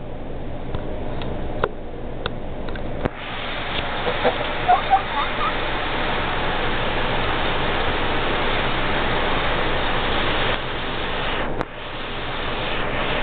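A steady rushing noise, louder from about three seconds in, with a few short rising calls from a young Brahma cockerel about four to five seconds in.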